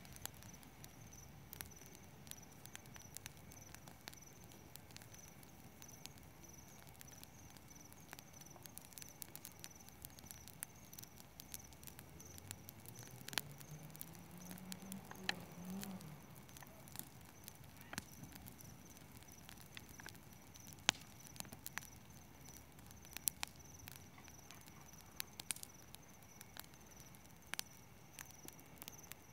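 Campfire crackling with scattered sharp pops, over steady chirping of crickets. Midway a faint low hum rises in pitch for a few seconds.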